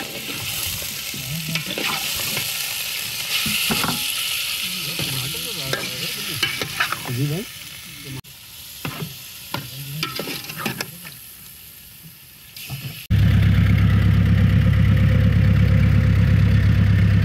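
Shrimp frying with onions in an aluminium pot, sizzling, with a steel ladle stirring and scraping against the pot. About 13 seconds in, this gives way abruptly to an engine running with a loud, steady hum.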